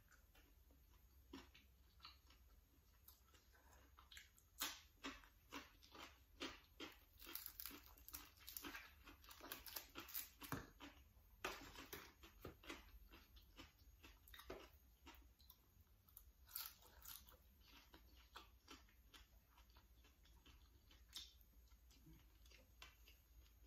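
A person eating close to the microphone: chewing and mouth sounds with many small crisp clicks and crackles, densest in the first half and sparser later.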